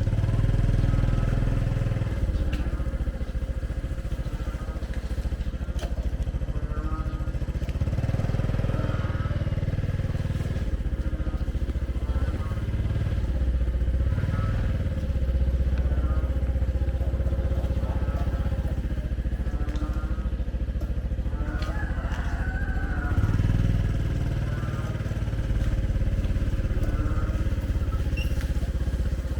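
Motorbike engines running steadily, with a constant hum and faint voices in the background.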